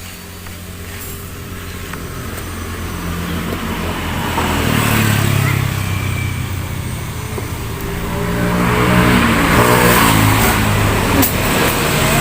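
Motor vehicle engine revving, growing louder over the first few seconds and rising in pitch and level again about two-thirds of the way through.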